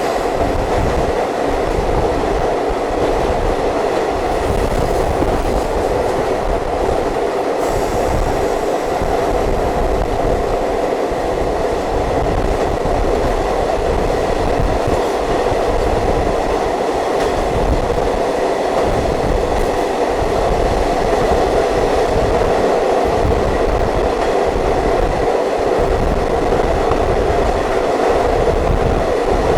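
Diesel multiple unit train running at speed, heard from inside the coach: a steady rumble of the wheels on the track.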